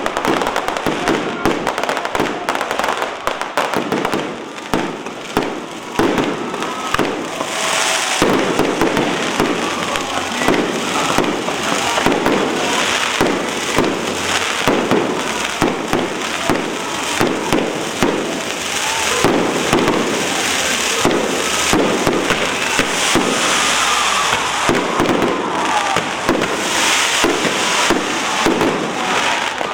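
Fireworks and firecrackers going off, a dense, unbroken run of sharp cracks and bangs.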